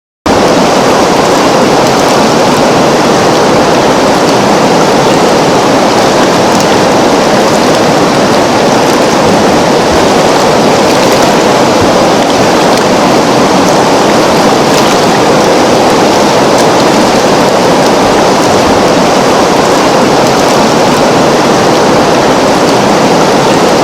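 A river flowing: a steady, unbroken rush of water that starts at once and never changes.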